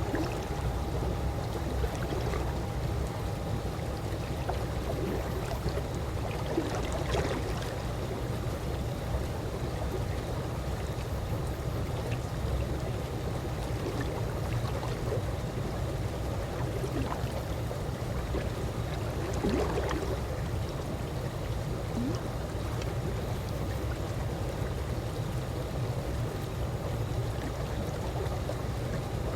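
Calm swimming pool water moving gently over a steady low rumble, with small gurgles here and there, the clearest about 7 and 20 seconds in.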